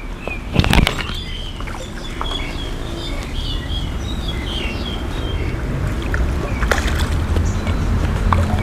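Small birds chirping in short twittering phrases for the first few seconds, over a steady low rumble. There are a couple of sharp knocks or splashes, one about a second in and another near the end.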